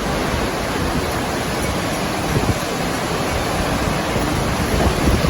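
Strong storm wind blowing hard, with gusts buffeting the microphone.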